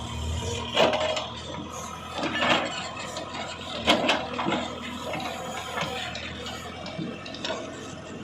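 Loose earth and stones tipped from a backhoe bucket into a tractor trolley, with a pouring rush and several sharp knocks and clatters over a low steady engine hum.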